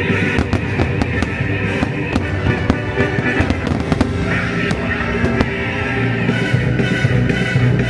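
Aerial fireworks going off in a rapid series of sharp bangs over loud orchestral show music.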